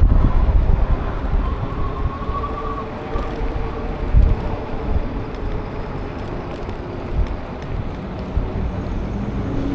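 Wind buffeting the microphone of a moving electric bike, an uneven low rumble, over steady road and traffic noise with a faint thin tone or two.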